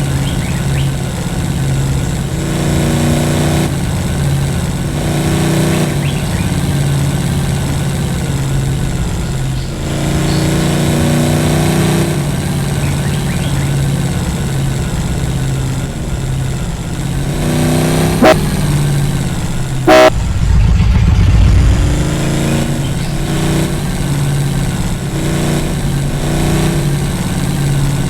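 Vehicle engine running steadily, its pitch rising and falling several times as it is revved. Two sharp loud bangs come about two seconds apart late on, the second followed by a short low rumble.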